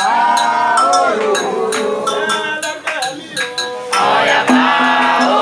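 Candomblé ritual song: voices singing a melodic chant over sharp, frequent percussion strikes.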